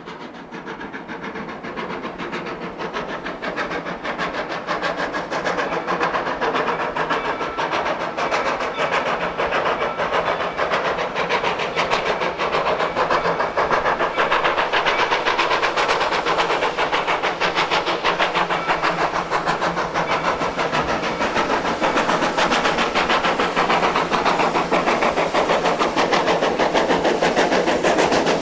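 2-8-0 steam locomotive #111 working with rapid, even exhaust chuffs, growing steadily louder.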